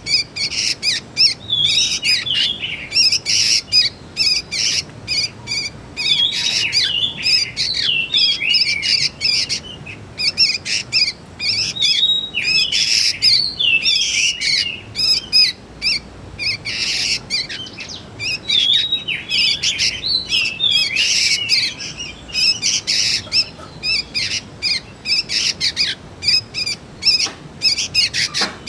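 Juvenile sooty-headed bulbul (kutilang) chirping in a rapid, almost unbroken string of short calls.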